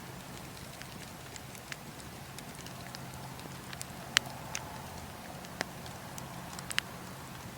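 Campfire of burning logs and coals crackling: scattered sharp pops over a steady hiss, the loudest a little past the middle and a close pair near the end.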